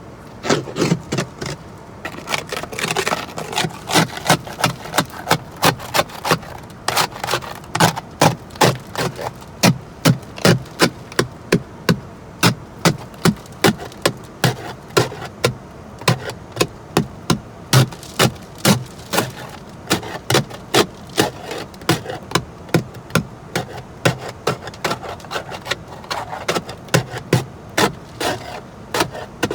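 A hand tool striking over and over at a steady pace of about two blows a second, chipping at ice left by freezing rain.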